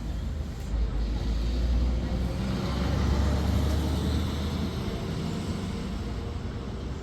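A motor vehicle driving, its engine and road noise a steady low rumble that swells about a second in and eases again after about five seconds.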